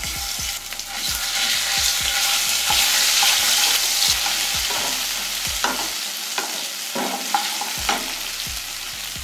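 Ginger-garlic paste sizzling in hot oil with crackling mustard, cumin and coriander seeds in a kadai, the sizzle swelling a few seconds in. A wooden spatula stirring it knocks and scrapes against the pan several times.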